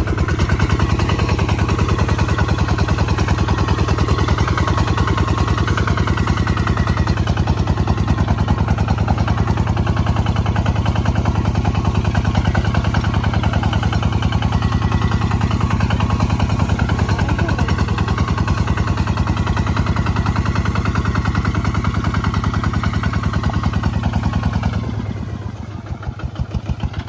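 Kubota ZT155 DI single-cylinder diesel running steadily with an even, rapid firing beat while working a plough. About 25 seconds in it drops to a quieter, slower-sounding run, as if throttled back.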